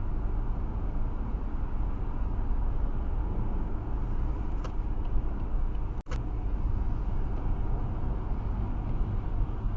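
Steady road and engine noise of a car driving at motorway speed, heard from inside the cabin. The sound cuts out for a split second about six seconds in.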